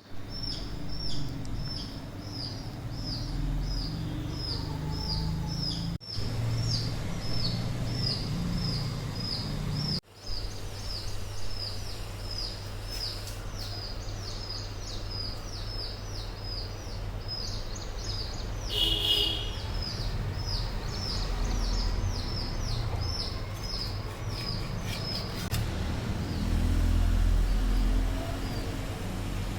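A small bird chirping over and over, about two or three short high chirps a second, over a steady low outdoor rumble. The rumble changes abruptly twice early on.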